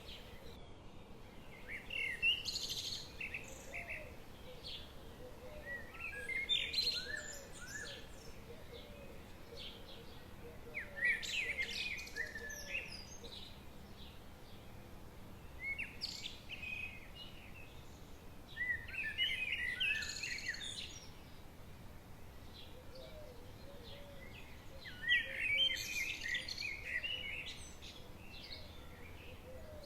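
Songbirds singing in short bursts of quick chirping phrases every four or five seconds, with a softer, lower warbling call in between, over a faint steady background hiss.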